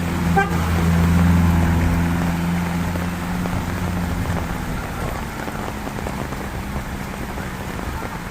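Heavy rain falling steadily. A motor vehicle's engine hums by in the first half, loudest about a second or two in, then fades out.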